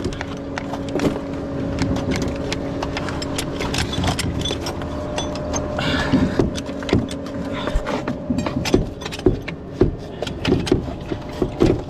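Concrete pump truck's engine running with a steady hum, under a stream of sharp knocks and clanks as the plugged line is worked on. The hum fades out about two-thirds of the way through, and the knocks come thicker near the end.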